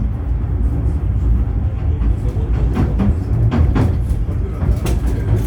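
71-911EM "Lvyonok-M" tram running along the track with a steady low rumble. From about two seconds in, several sharp clicks and knocks come from the wheels on the rails.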